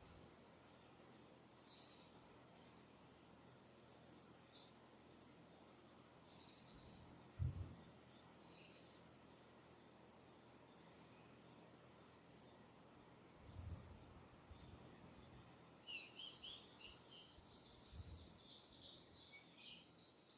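Distant wild birds chirping: a short, high call repeats about once a second, and a busier twittering song joins in about two thirds of the way through. A few soft low rumbles of breeze come and go underneath.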